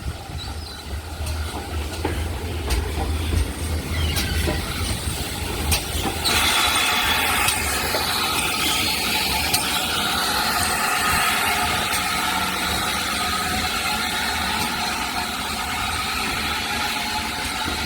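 GWR Manor-class steam locomotive 7827 Lydham Manor in the station: a low rumble, then a steady hiss that starts about six seconds in and carries on.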